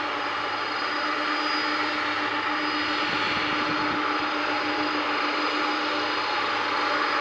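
Boeing 747-400F jet engines idling while the freighter holds before take-off: a steady rushing noise with a constant whine on top.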